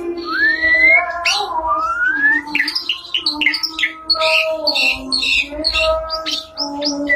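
White-rumped shama singing a loud, varied whistled song: slow rising whistles first, then from about two and a half seconds in a fast run of short varied notes.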